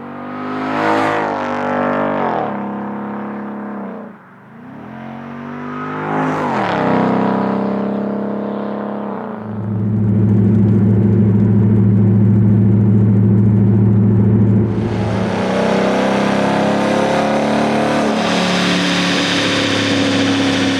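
Ford Mustang GT's 5.0L V8 through a Flowmaster Outlaw axle-back exhaust, revved up and dropped back twice, then held at a steady higher rev for several seconds. Near the end a rushing noise joins the exhaust note.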